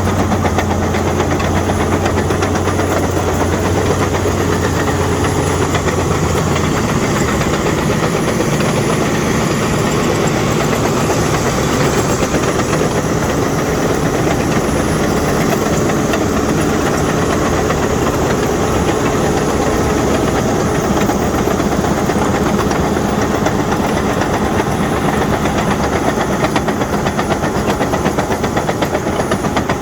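Caterpillar D6N bulldozer working up close: its diesel engine runs steadily under the rapid clatter and squeal of its steel tracks. A low hum under the engine stops about six seconds in.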